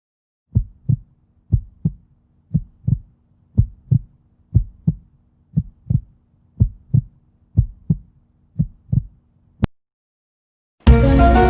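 Heartbeat sound effect: low, paired lub-dub thumps about once a second, nine beats in all, followed by a single sharp click. Music starts just before the end.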